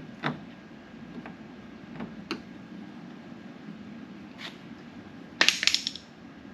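Small parts and hand tools being handled: scattered light clicks and taps, then a short burst of rapid clicking and rattling about five and a half seconds in, over a steady low background hum.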